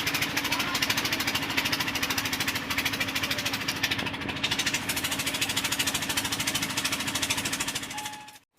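Air-operated grease pump chattering steadily with rapid, even hammering pulses while it pumps grease. The sound fades out and cuts off just before the end.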